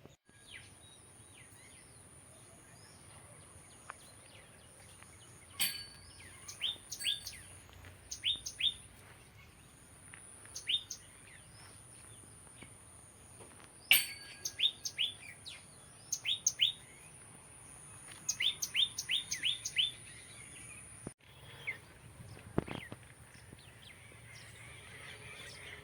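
Birds chirping: short, falling chirps in quick runs of several at a time, over a faint steady high-pitched tone.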